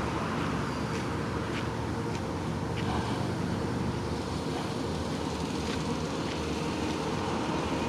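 Road traffic noise: a steady rush of passing vehicles, with one vehicle's low engine hum fading away over the first few seconds.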